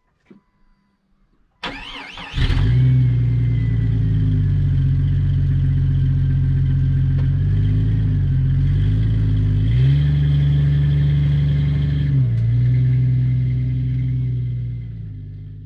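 A vehicle engine cranked over by its starter for about a second, then catching and running loudly and steadily, the revs shifting up and down a few times before the sound fades out near the end.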